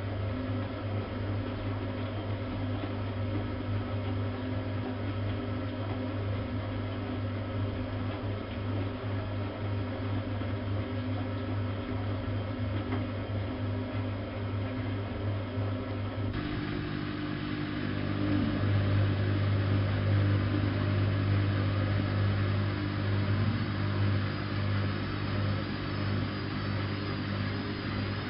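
Bosch WFK 2431 washing machine running, its motor and drum giving a steady hum. About sixteen seconds in the sound changes suddenly and turns brighter, then grows louder a couple of seconds later as the machine changes phase.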